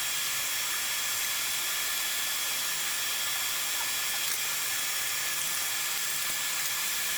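Forge blower running steadily: an even, loud hiss with a thin high whine.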